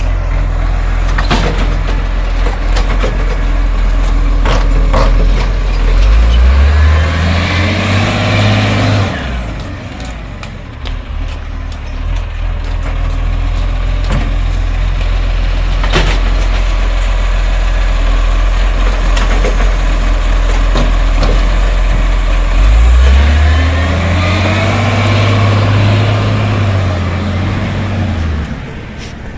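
Garbage truck's diesel engine idling, then revving up and holding high twice for a few seconds each, with a whine, as it works its bin-lifting hydraulics to empty wheelie bins. Sharp clunks and knocks come between the revs.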